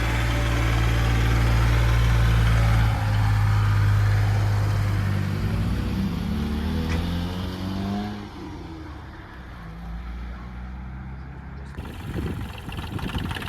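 Tractor engine running steadily, then speeding up with a rising pitch about halfway through before it drops back and becomes quieter.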